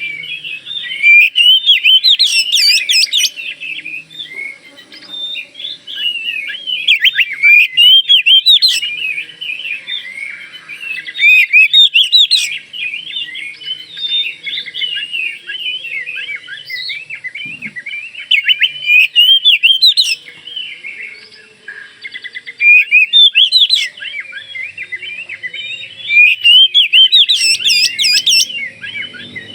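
Oriental magpie-robin of the Bornean (Kalimantan) form singing a continuous, varied song of rapid whistles and chirps. Louder, higher phrases break out every few seconds.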